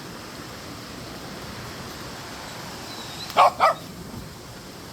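A dog barks twice in quick succession, about three and a half seconds in, over a steady background hiss.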